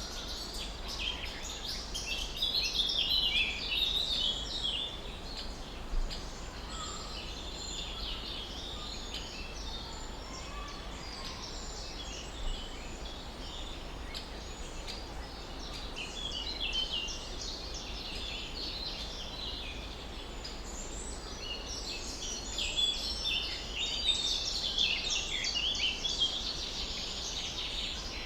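Several small songbirds chirping and trilling in an overlapping chorus, busiest about two seconds in and again near the end, over a steady low rumble.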